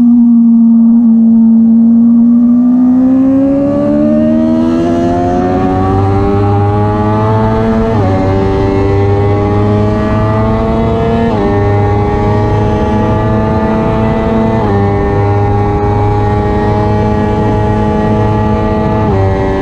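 Suzuki race motorcycle's engine heard from onboard under hard acceleration, its pitch climbing steadily through each gear and dropping sharply at four upshifts, with wind rush building as speed rises.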